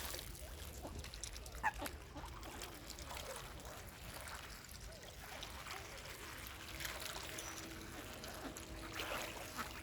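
Swans and ducks dabbling and splashing in the water as they eat scattered food, with faint small splashes. A short call rises briefly about two seconds in, and a faint steady hum comes in over the last few seconds.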